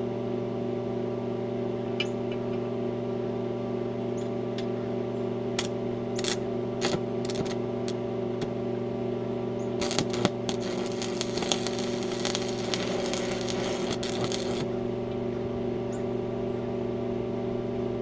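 Arc welding: a steady machine hum throughout, a few sharp clicks in the middle, then about five seconds of crackling weld arc that cuts off.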